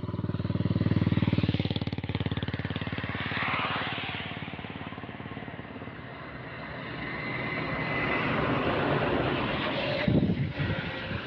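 Motor vehicle engine noise on a road, loudest about a second in and fading, then building again later with a sharp loud jolt about ten seconds in.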